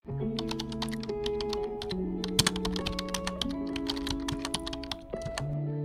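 Quick, irregular computer-keyboard typing clicks over background music with held chords.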